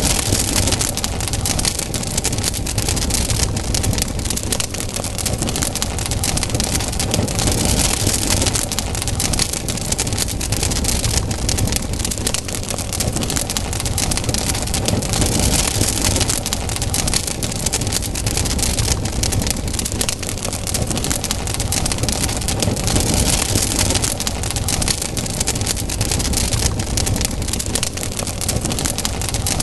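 Campfire burning with steady, dense crackling and many small pops, over a low rumble.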